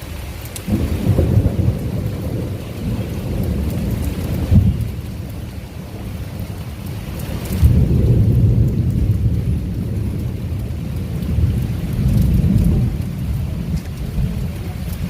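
Thunder rumbling in long, low rolls over heavy rain, swelling about a second in, again around halfway, and once more near the end.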